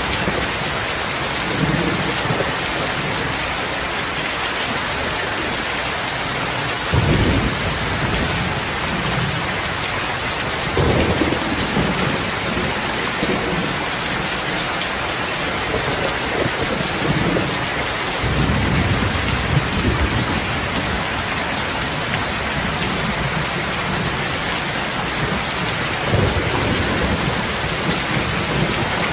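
Heavy, steady rain hissing, with low thunder rumbles swelling up several times: about 7 s in, around 11 s, from about 18 to 20 s, and near the end.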